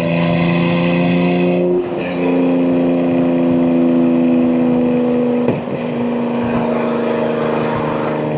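BMW M2 G87's S58 twin-turbo inline-six running steadily through catless downpipes and an equal-length mid pipe. The engine note dips briefly and changes pitch about two seconds in and again about five and a half seconds in, as with gear changes in the manual gearbox.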